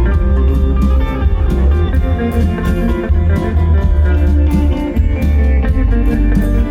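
Live band playing a song's instrumental intro: guitar over heavy bass and steady drum hits.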